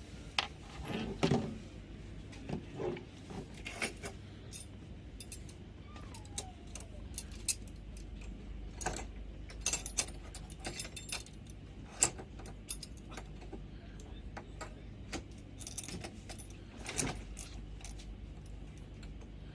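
Passenger train coach starting to move out of a station: a steady low rumble with many irregular, sharp metallic clicks and clinks.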